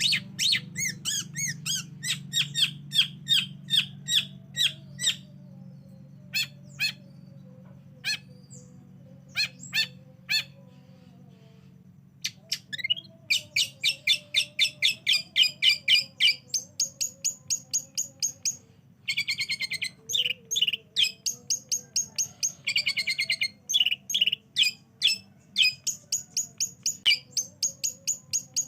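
Long-tailed shrike (cendet) singing: fast runs of sharp repeated chattering notes, about five a second, broken by short pauses, with a sparser stretch of single notes in the first half. A faint low hum fades out about ten seconds in.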